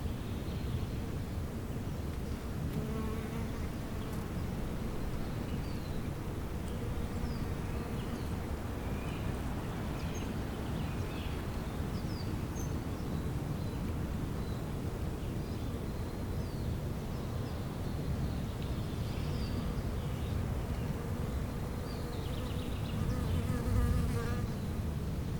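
Bees buzzing steadily, swelling briefly louder near the end.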